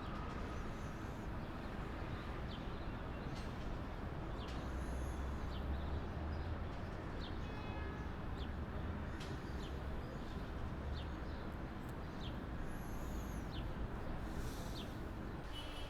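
City street ambience: a steady rumble of traffic, with short high chirps from small birds scattered through it.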